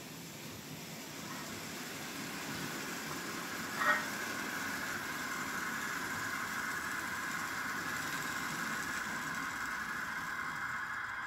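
Märklin H0 model steam locomotive with passenger coaches running on metal M-track, its motor whine and wheel rumble growing louder over the first few seconds as it approaches, then steady. A short sharp click about four seconds in.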